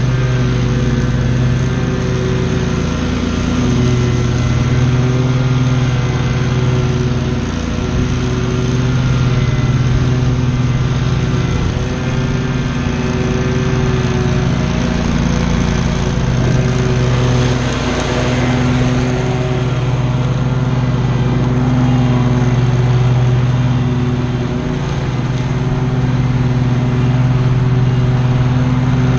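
Commercial lawn mower engine running steadily at cutting speed, with brief dips in level every few seconds.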